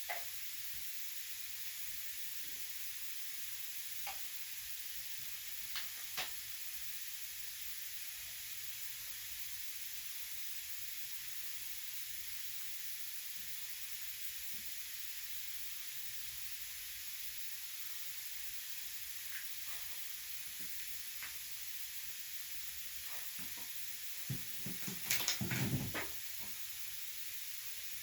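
A steady high hiss, with a few scattered clicks and a short run of louder knocks and rattles near the end.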